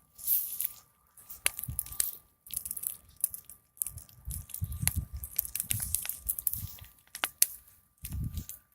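Big wood fire crackling: irregular clusters of sharp snaps and pops, with low rumbling surges in between.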